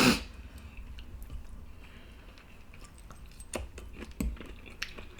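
Eating at close range: a short knock right at the start, then quiet chewing with a few sharp clicks of a utensil against a takeout food container as the last bits are scraped up.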